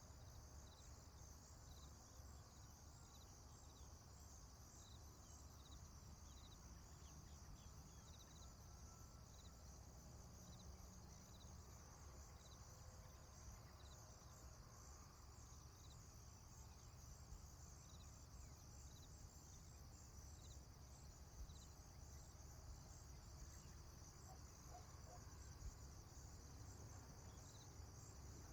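Faint rural dawn ambience: insects chirping steadily in regular pulses, over a low steady rumble.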